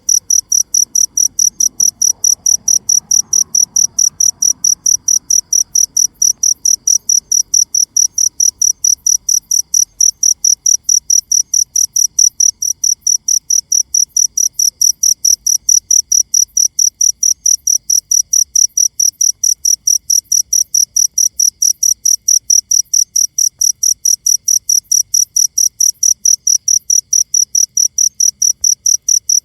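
A cricket chirping steadily in a high-pitched, even rhythm of about three chirps a second.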